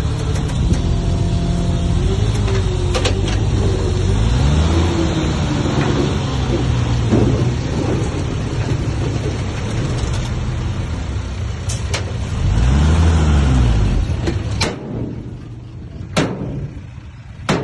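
Heavy diesel construction machinery running, its engine revving up and down twice, with sharp metallic clanks. The engine sound drops away near the end.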